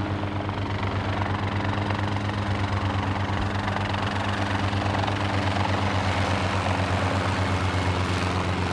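Helicopter running steadily, a fast even rotor chop over a constant engine drone.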